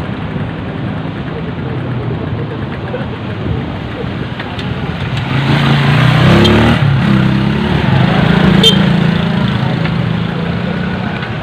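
Road traffic with a motor vehicle's engine passing close, its running note rising and then falling away over a few seconds in the middle, and a brief sharp click near the end of the pass.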